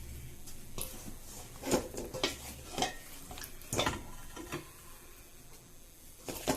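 A spoon scraping and knocking against a pan and plate while cooked chicken wings are served from the pan onto the plate: a run of separate clinks and scrapes, with one more near the end.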